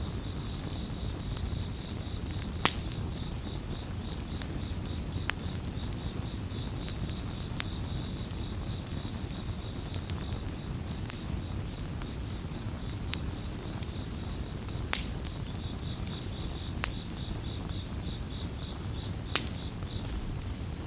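Campfire burning with a low, steady rumble and scattered sharp crackling pops, a few of them loud. A cricket chirps in a fast, high-pitched pulse throughout, pausing briefly a little past the middle.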